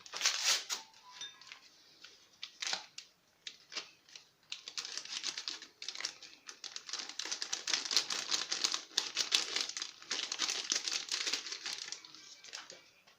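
Cake batter being mixed by hand in a bowl: a rapid run of clicks and scrapes from the utensil against the bowl, getting going about four seconds in.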